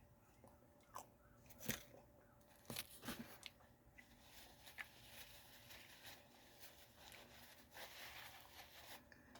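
Faint crunching and chewing: a toasted apple toaster strudel pastry being bitten into and chewed, with a few sharp crunches in the first three seconds, then softer, steadier chewing.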